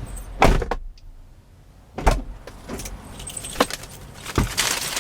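Irregular knocks, clicks and rustles of things being handled inside a car, over a low engine hum. The loudest knock comes about half a second in, followed by a short, almost silent gap.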